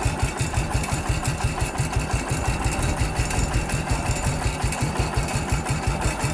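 An engine running steadily at idle, with an even, fast pulsing beat.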